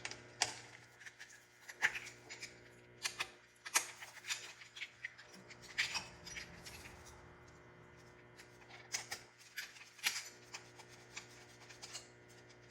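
Irregular light clicks and metallic clinks of an Allen wrench working the bolts of a motorcycle's plastic cover, with small taps as the hardware and panel are handled.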